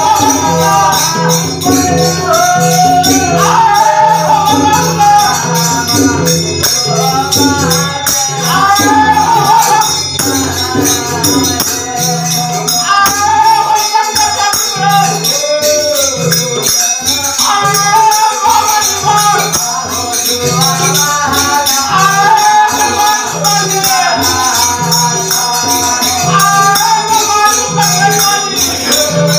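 Devotional bhajan: a man singing over a hand drum keeping the rhythm (theka) and jhal hand cymbals clashing steadily.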